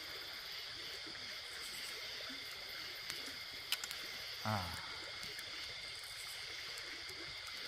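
Evening riverside ambience: a steady chorus of night insects over the faint flow of the river. About halfway through comes a short low voice sound falling in pitch, just after a few light clicks.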